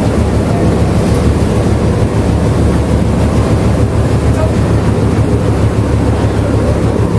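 Tea-factory processing machinery running steadily with a loud, constant low hum.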